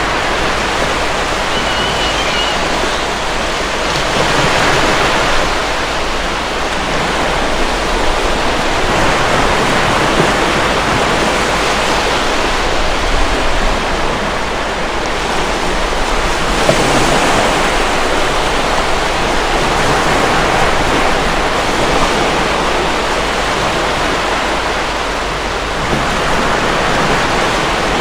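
Sea waves breaking and washing against rocks: a continuous rush of water that swells and ebbs every several seconds.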